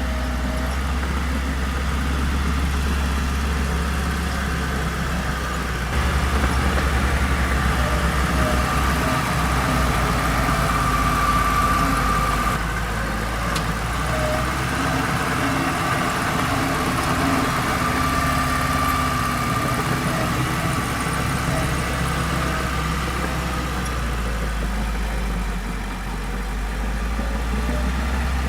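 Heavy diesel earthmoving machinery running steadily. The engine grows louder for a few seconds from about six seconds in, then settles back. A faint high whine rises twice over the drone.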